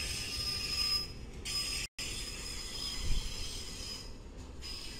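Train rolling on the tracks out of view: steady rail noise with a thin, high-pitched wheel squeal. The sound cuts out for an instant about two seconds in.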